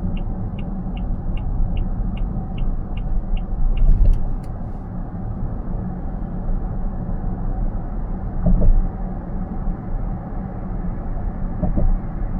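Car cabin road and tyre rumble at expressway speed, with a light regular ticking, about three a second, for the first few seconds, typical of a turn-signal indicator during a lane change. Two brief louder bumps come later, about two-thirds of the way through and near the end.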